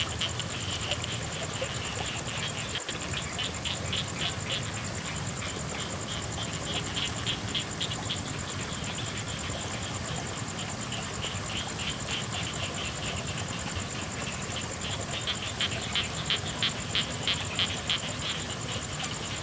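Frogs calling at night in rain: repeated trains of rapid, high pulsed croaks that come and go several times, loudest near the end. A steady high-pitched trill runs beneath them over a low patter of rain.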